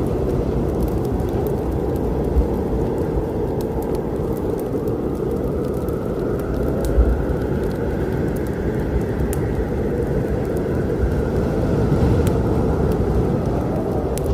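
Wood fire crackling with scattered sharp pops over a steady low storm rumble, and one louder pop about seven seconds in.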